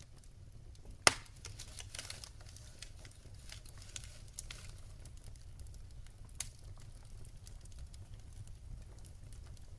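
Wood fire burning in a fireplace: a steady low rumble with scattered small crackles, a loud sharp pop about a second in and another pop a little after six seconds.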